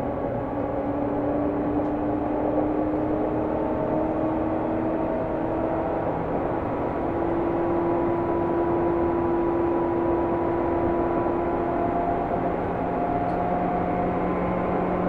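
Running sound inside a Seibu New 2000 series electric commuter train at speed: a steady rumble of wheels on rails, with motor and gear hums that drift slowly in pitch.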